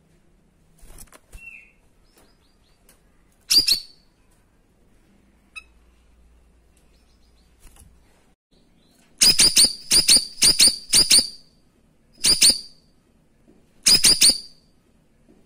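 Cucak rawis giving its loud, sharp 'tembakan' (shot) calls: one burst about three and a half seconds in, a quick run of about five notes around nine to eleven seconds, then two more short bursts near the end, with faint small chirps between.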